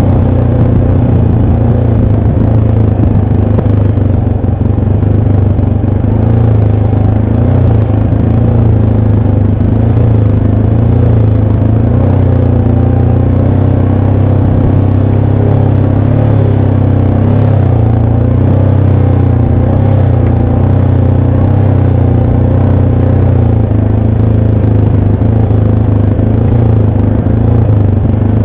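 ATV engine running loud and steady while the quad is ridden along a dirt trail, its pitch holding even with a brief dip a little past halfway.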